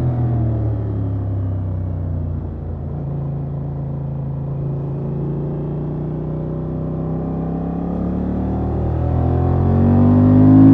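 Honda XL750 Transalp's 755 cc parallel-twin engine through its stock exhaust, running at low, fairly steady revs that sag slightly. About eight seconds in, the pitch rises and it gets louder as the throttle opens and the bike accelerates.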